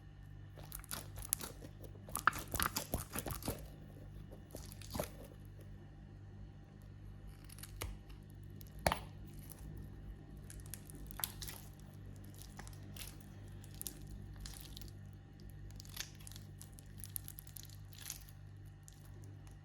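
Crackly tearing and crunching as a stress toy is cut and pulled open, with a dense run of crackles about two seconds in, then scattered single crackles, over a steady low hum.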